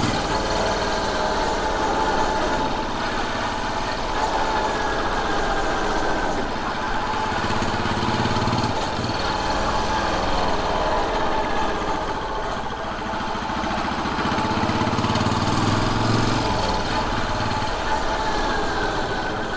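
Royal Enfield Bullet 500's single-cylinder engine running while the motorcycle is ridden, a steady engine note with the pitch falling briefly a couple of times.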